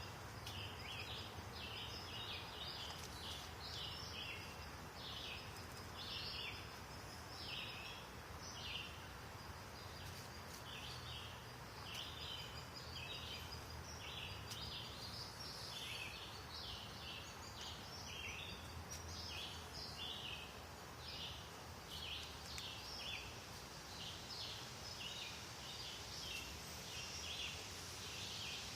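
Many small birds chirping at once, a dense, continuous chatter of short high calls over a faint low rumble.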